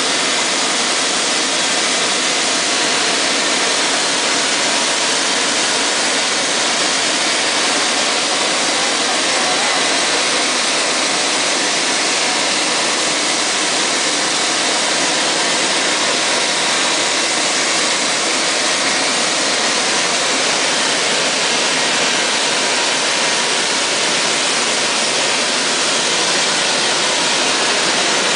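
On-site grinding of a large rotary dryer's riding-ring tracks while the dryer keeps turning: a steady, even hiss, strongest in the high range, with no breaks.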